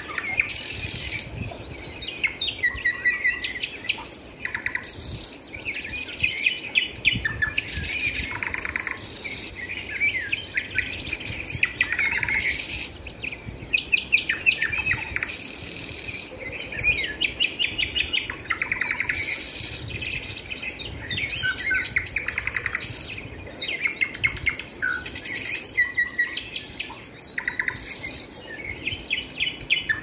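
Several birds chirping and chattering over one another without a break, with quick runs of rapidly repeated high notes.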